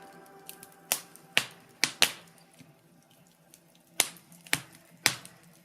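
Wood fire crackling: a soft hiss broken by sharp, scattered pops, about seven of them, bunched in the first half and again near the end. The tail of a piece of music fades out in the first second.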